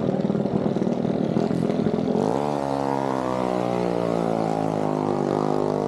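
Small mini bike engine running rough, then about two seconds in it revs up, its pitch climbing steadily as the bike accelerates. The sound breaks off abruptly near the end.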